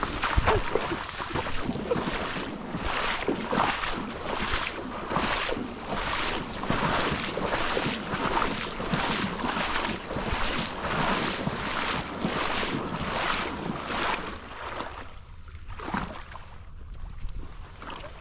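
Rhythmic splashing of water, about two splashes a second, dying away about three seconds before the end.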